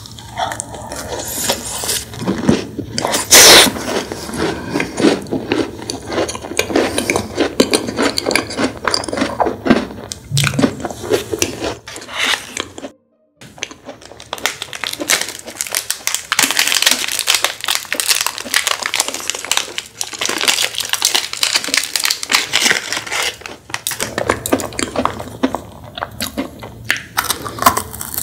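Close-miked eating: chewing and crunching a macaron, then, after a short break about 13 seconds in, crunching into the wafer and chocolate of a chocolate cone, with fast crisp crackles throughout.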